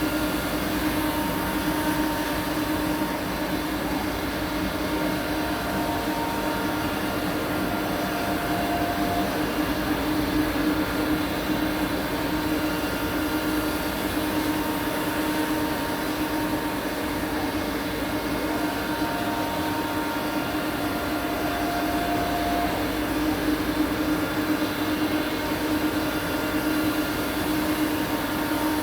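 Klingelnberg Wiener 800 CNC spiral bevel gear grinding machine running in working mode with coolant: a steady mechanical hum with a strong low tone over an even hiss. A higher tone comes in for a few seconds twice, about five seconds in and again past the middle.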